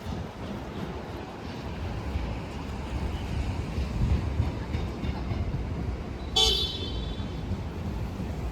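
Busy city street with a steady low traffic rumble, and one short car-horn toot about six seconds in.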